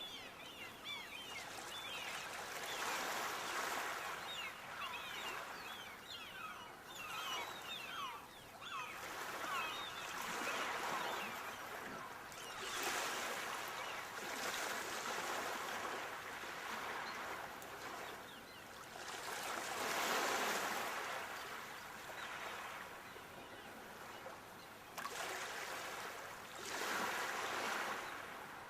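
Sea waves breaking and washing up the shore, a rushing noise that swells and falls back every few seconds, the biggest surge about twenty seconds in. A flurry of short, high, falling chirps sounds over the surf during the first ten seconds.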